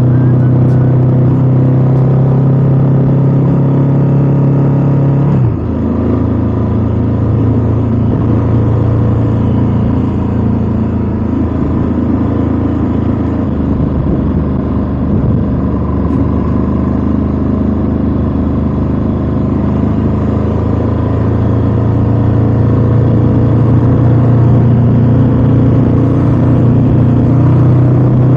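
Ducati Scrambler 1100's air-cooled L-twin engine running steadily while riding, with road and wind noise. The engine note changes abruptly about five seconds in.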